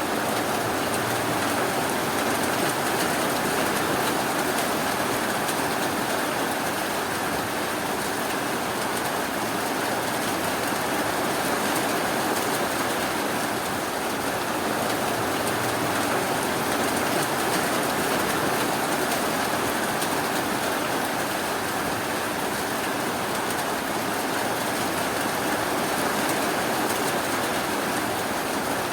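Steady rain falling, an even, unbroken hiss with no thunder or other sudden sounds.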